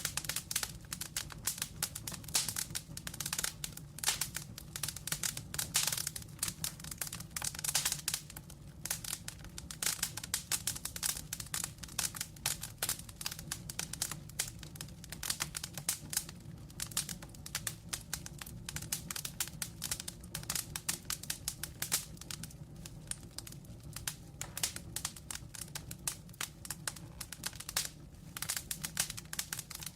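Wood logs burning in a fireplace, crackling with many quick irregular pops and snaps over a low steady rumble of flame. The crackling is thickest in the first several seconds and again near the end.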